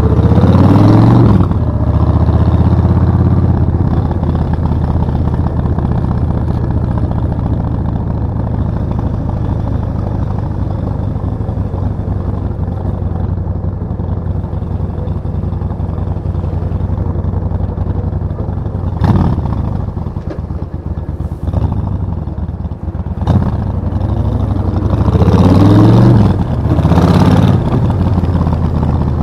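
Suzuki VS1400 Intruder's V-twin engine under way. The revs sweep up and down at the start, then it runs at a steady cruise. About two-thirds through the note drops back briefly, and near the end it pulls hard again with the revs climbing and falling through gear changes.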